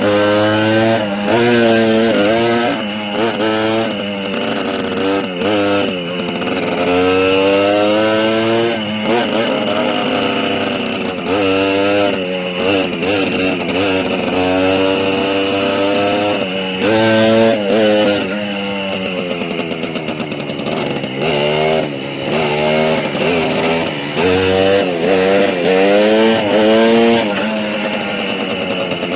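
Small motorbike engine running hard while riding, its pitch climbing with the throttle and dropping back again and again, as at gear changes or easing off.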